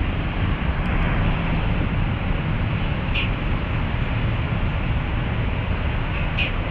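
Steady rumble of city traffic, with two short high chirps, one about halfway through and one near the end.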